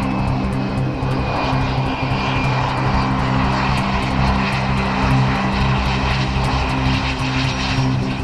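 Airplane engine running steadily, with a faint high whine slowly falling in pitch.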